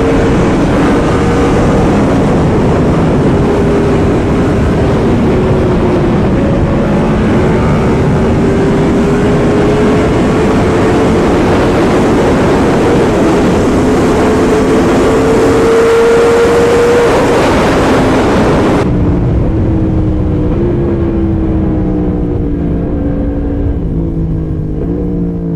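Yamaha R1M's crossplane inline-four engine running at speed through an aftermarket titanium exhaust, with heavy wind rush; the engine note climbs slowly toward a peak. About three-quarters of the way through, the wind and engine sound cut off suddenly and music follows.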